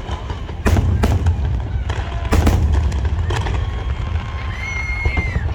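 A fireworks display bursting: a string of sharp bangs and crackles, some in quick pairs, over a steady low rumble. A short high whistle sounds near the end.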